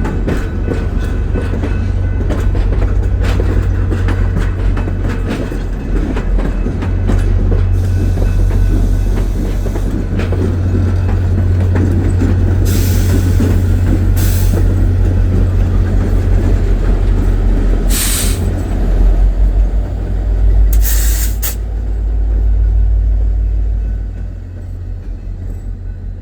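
VIA Rail passenger train with a diesel-electric locomotive moving slowly over the switches: a deep, steady engine rumble with wheels clicking over rail joints, most densely in the first half. A few short hissing bursts come around halfway and later, and the sound eases off near the end.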